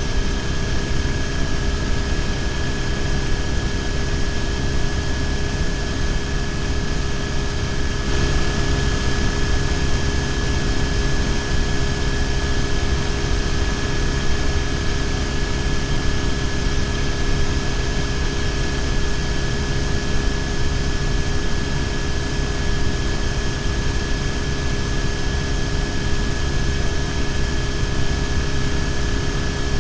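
BMW R1150GS boxer-twin motorcycle cruising at a steady speed, its engine drone mixed with wind and road rush on a bike-mounted microphone. The sound holds steady with no changes in pitch.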